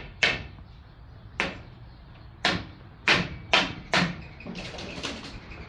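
A series of sharp, irregularly spaced knocks, about ten in all, with a quicker, fainter run of them near the end.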